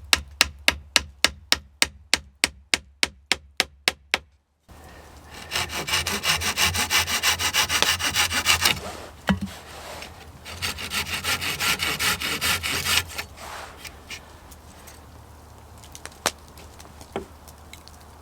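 Hand saw cutting wood in two bouts of about three seconds each, with a short pause between. Before that, about four seconds of regular sharp taps, about four a second, ending abruptly.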